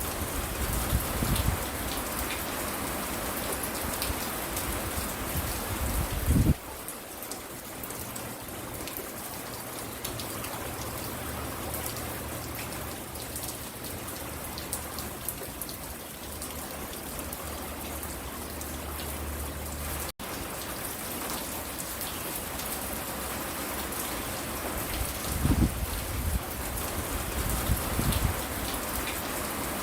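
Steady rain falling and pattering on the porch, with low rumbling thumps in the first few seconds and again near the end. The sound changes abruptly about six seconds in and drops out for an instant about two-thirds of the way through.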